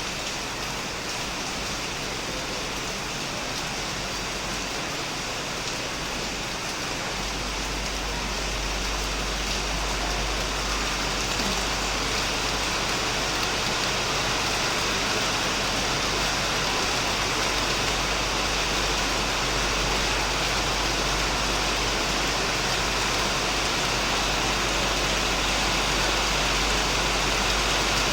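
Heavy rain falling steadily on a shed and surrounding plants, an even hiss that grows a little louder about a quarter of the way in.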